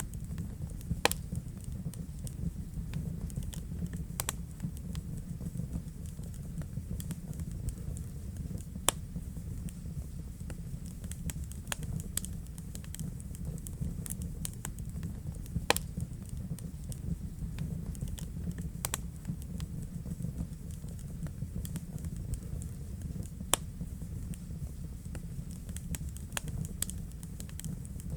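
Wood fire burning in a fireplace: a steady low rumble of the flames with continual crackling and a few louder pops.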